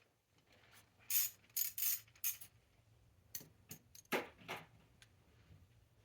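Metal hand tools and sockets clinking and rattling in several short bursts, most of them in the first two thirds.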